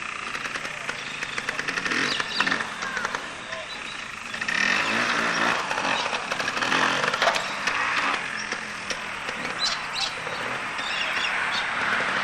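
Small motorcycle engine running, getting louder about four and a half seconds in.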